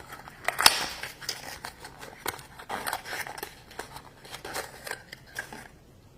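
Toy packaging being handled and opened by hand: a run of sharp plastic clicks and rustles that stops about half a second before the end.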